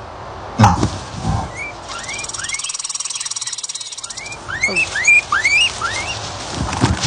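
Small animal calls: a series of short, rising chirps, with a fast buzzy rattle between them in the middle. A heavy thump about half a second in is the loudest sound.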